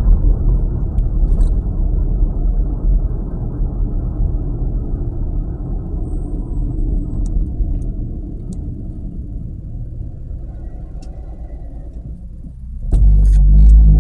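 Vehicle road and engine rumble while driving, low and steady, easing off slowly through the middle, then a sudden loud low surge of rumble about a second before the end.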